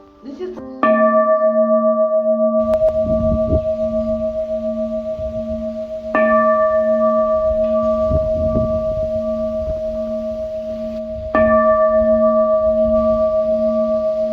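Bowl-shaped bronze temple bell (qing) struck three times, about five seconds apart, each strike ringing on with a slow pulsing hum that fades only a little before the next.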